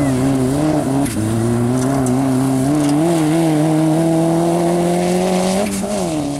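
Maruti Gypsy rally car's engine at high revs on a dirt course, its pitch wavering through the first few seconds, then held high and steady before dropping away near the end.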